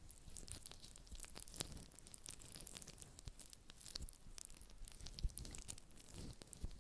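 Faint close-miked ASMR handling sounds: a stream of irregular small clicks, crackles and soft taps, with no steady rhythm.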